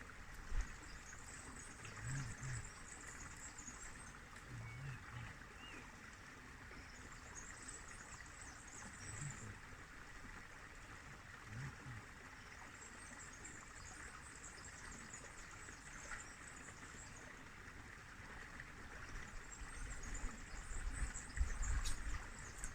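Faint river ambience: a steady wash of flowing water, with a high thin trill coming and going in four spells and a few soft low thumps. Low wind rumble on the microphone builds near the end.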